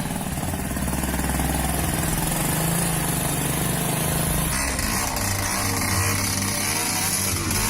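A motor vehicle's engine running steadily, its note changing about four and a half seconds in.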